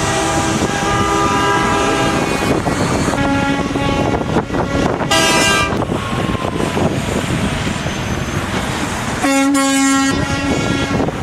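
Truck air horns sounding in about four blasts of differing pitch, the first one long, over the steady noise of trucks rolling by. The loudest blast comes near the end.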